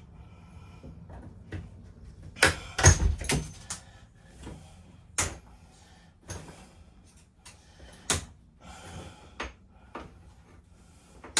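Knocks and clatter of interior fittings being pried and pulled out of an old motorhome, with a burst of several loud bangs about two and a half seconds in, then single knocks every second or two.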